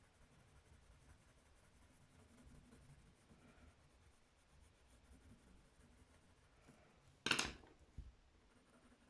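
Faint scratching of a coloured pencil on paper. A sharp knock comes about seven seconds in, followed a moment later by a lighter one.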